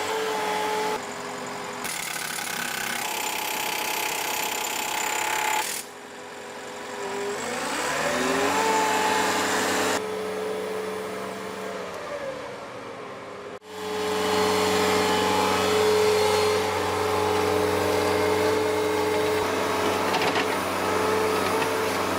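Heavy-vehicle engines running, one revving up about seven seconds in. The sound changes abruptly several times, the engine note shifting at each change.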